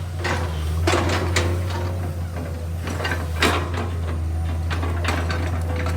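Komatsu PC210 excavator's diesel engine running with a steady low drone, with scattered metallic clanks and knocks from the working machine.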